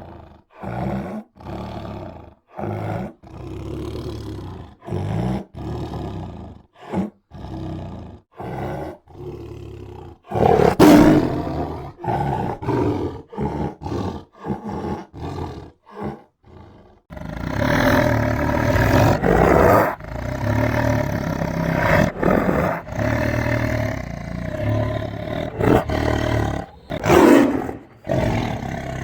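Tiger growling and roaring: a string of short growls with pauses, one louder roar about eleven seconds in, then near-continuous growling and roaring from about halfway, with another loud roar near the end.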